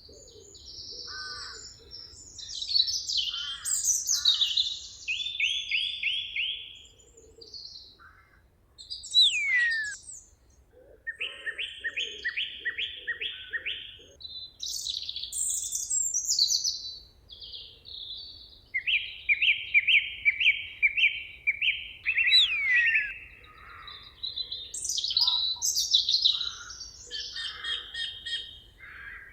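Several songbirds singing and calling over one another in a forest chorus. The phrases are often rapid runs of repeated notes, with an occasional sharp falling whistle.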